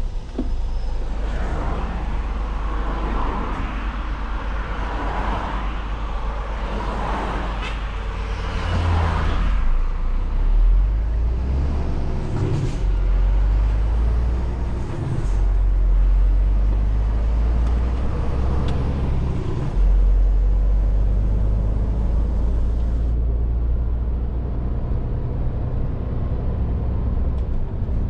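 Scania R450 lorry's 13-litre straight-six diesel running under way, a steady low rumble that swells and eases several times as the truck is driven, mixed with road and tyre noise.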